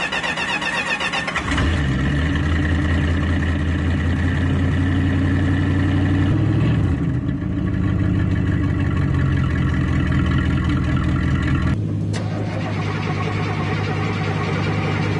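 Engine running loud through a Flowmaster Super 10 muffler held over its exhaust. Its speed rises slowly and then drops about halfway through. The tone changes abruptly about a second and a half in and again near the twelve-second mark, where there is a short click.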